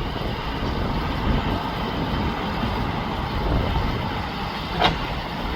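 Backhoe's diesel engine running steadily under load while it scrapes dirt off a pile. A short, high chirp or squeak comes near the end.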